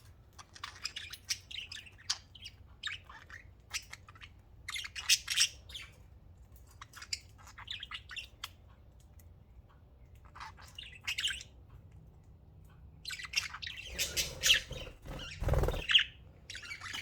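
Pet budgerigars chirping and squawking in many short calls, with a dull thump and rustling near the end.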